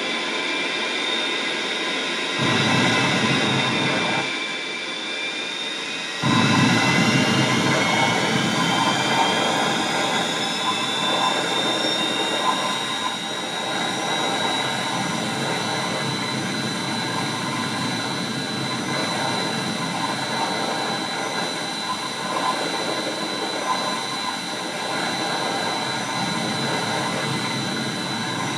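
Saab 37 Viggen's Volvo RM8 turbofan starting: a high whine that climbs in pitch and then settles steady, over a rumble that cuts in suddenly about two seconds in, falls back, and returns sharply about six seconds in to run on.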